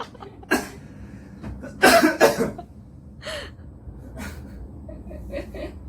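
A cat biting and tearing at fresh oat grass, giving a few short crisp crunching and ripping sounds spaced a second or more apart. A louder short breathy voice sound from a person comes about two seconds in.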